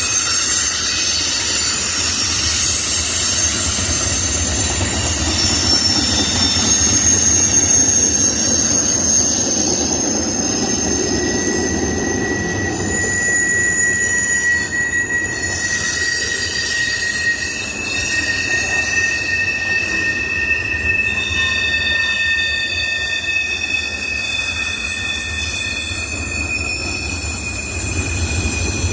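Freight cars of a Norfolk Southern manifest train rolling past with a steady rumble. High-pitched wheel squeals overlap it throughout, each held for several seconds at a time.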